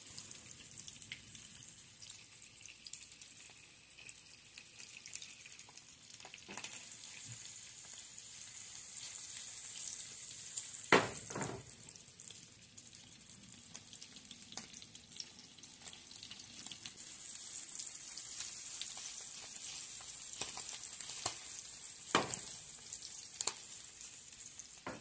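Salmon fillets pan-frying in oil, a steady high sizzle, with a few sharp knocks, the loudest about halfway through.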